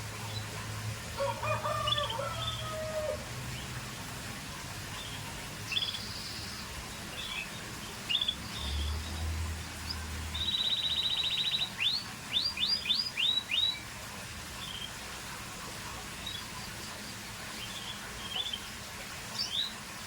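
Scotch Fancy canary singing: scattered short high chirps, then about ten seconds in a fast rattling trill followed by a quick run of upward-sweeping notes.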